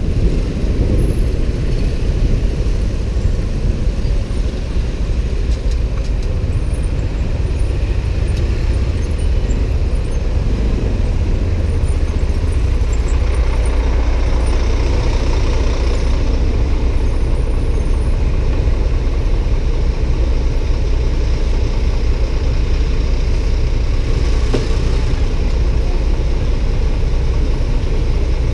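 Steady low rumble of a motorbike ride among traffic: engine and road noise running on without a break.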